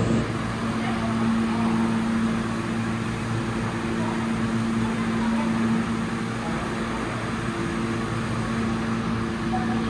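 New York City subway platform ambience: a steady low electrical hum over a constant wash of noise.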